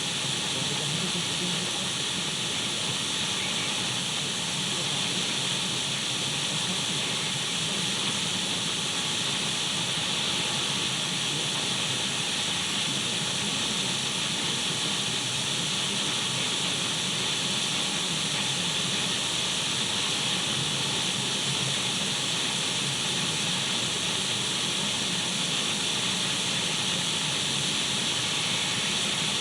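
Untuned radio static: a steady, unchanging hiss of white noise, brightest in the upper range, with a few faint steady tones under it.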